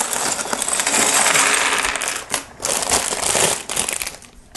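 Loose plastic Lego pieces clattering and rattling against each other as they are slid across a table, in two spells of many small clicks that die away near the end.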